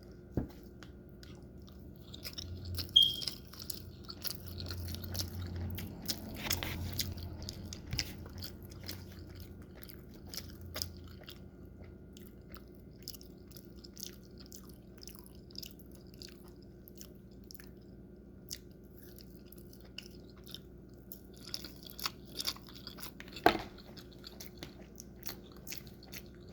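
A person chewing food with their mouth close to the microphone, with many small wet smacks and clicks and a few sharper knocks, like utensils or a plate being touched.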